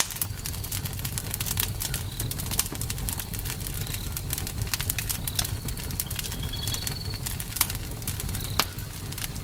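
Campfire burning: frequent sharp crackles and pops from the wood over a steady low rumble of the flames. A few short high chirps come through, one a brief trill near the middle.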